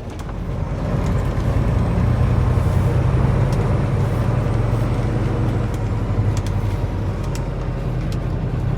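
Semi truck's diesel engine running under way, heard from the cab; the low drone grows louder about a second in and then holds steady.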